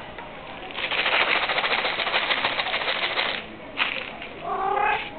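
A dense, rapid clatter of clicks lasting about two and a half seconds, then a single sharp click and a short pitched voice-like call near the end.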